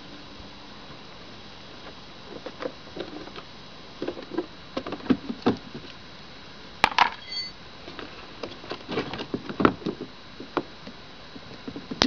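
Irregular clicks, knocks and rattles of hand work on a Suzuki Let's II scooter during a battery change with a hex wrench. A sharp metallic clink about seven seconds in rings briefly.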